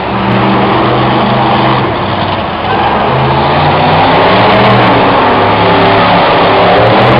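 Monster truck engine running loud and revving, with a step up in level about a quarter second in and again near three seconds in.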